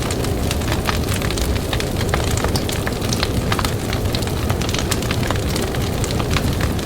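Campfire crackling with frequent sharp snaps and pops, over a steady low rush of blizzard wind.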